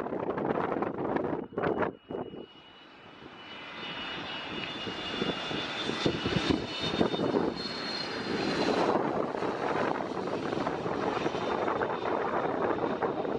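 Airbus A321neo jet airliner coming in to land, its engines giving a high steady whine that grows louder over a couple of seconds. About three-quarters of the way through, the whine gives way to a broader, steady rush of engine noise. Wind rumbles on the microphone at the start.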